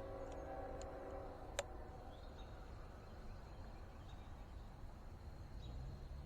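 Approaching Norfolk Southern freight locomotive's horn sounding a steady chord that cuts off about a second and a half in, followed by a sharp click and a low steady rumble.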